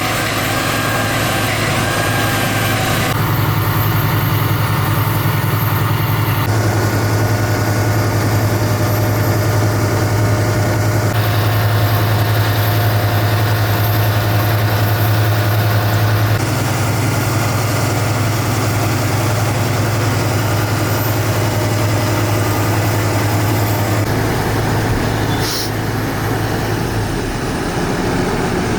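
Fendt 930 Vario tractor's six-cylinder diesel engine running steadily with a deep, even drone and a faint whine above it. The tone shifts abruptly a few times.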